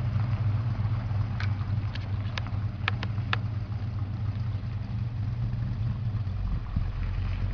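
Plymouth Road Runner's 440 Six Pack V8 idling with a steady, even low rumble, a few light clicks over it between about one and a half and three and a half seconds in.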